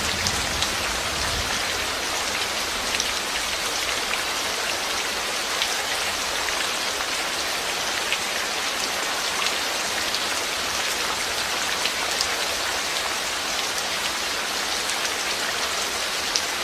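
Steady rain falling, an even hiss with scattered sharp drops ticking on a surface.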